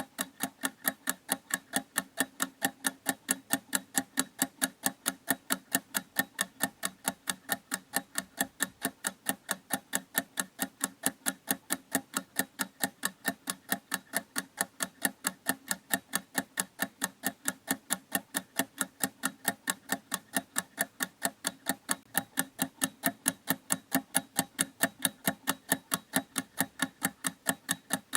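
Clock ticking in a steady, even rhythm of about four ticks a second.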